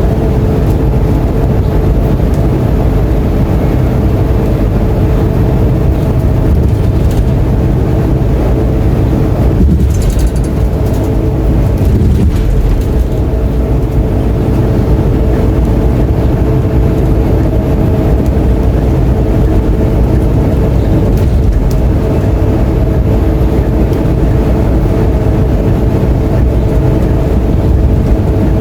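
Scania K230UB bus's diesel engine heard from on board, running steadily under way with a loud low rumble. A brief hiss comes about ten seconds in.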